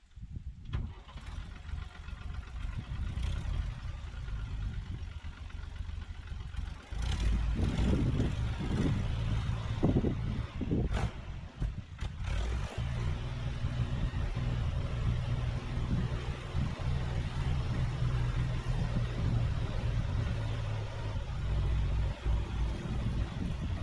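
Engine of a Norwood Lumbermate Mark IV portable sawmill running, getting louder about seven seconds in. A few sharp knocks come in the next few seconds, then the engine settles into a steady run.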